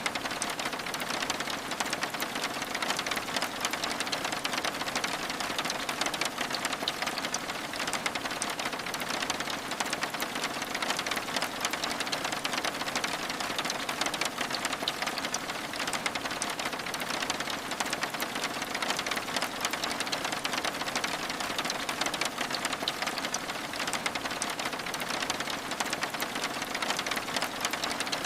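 Steady rain, a dense, even patter of drops on window glass.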